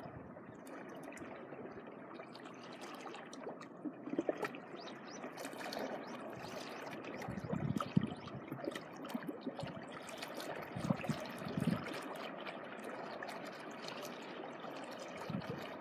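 Gentle sea water washing and trickling over the shore, with irregular small splashes, the strongest about halfway through and again a few seconds later.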